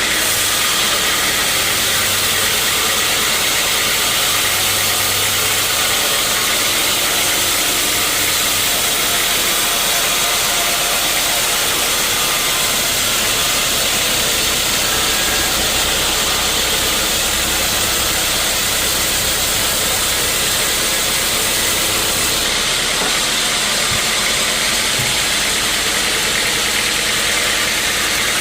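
Sawmill machinery running steadily: a loud, even noise with a low hum beneath, which changes slightly about three-quarters of the way through.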